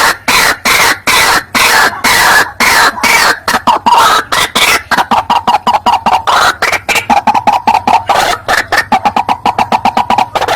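White-breasted waterhen (ruak-ruak) lure call: loud harsh croaking notes repeated about three times a second, then speeding up after about five seconds into a faster run of shorter notes on one pitch.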